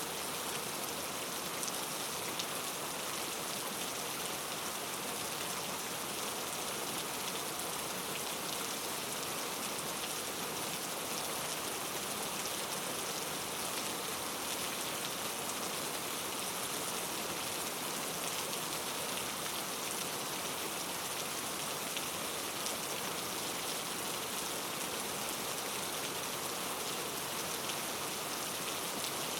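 Steady rain falling, an even hiss of drops with faint scattered patters and no thunder.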